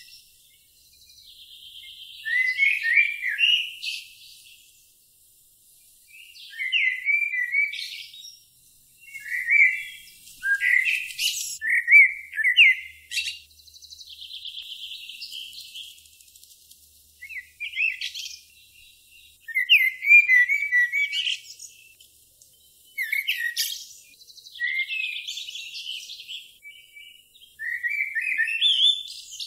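A songbird singing repeated phrases of chirps and short trills, one every few seconds with short pauses between.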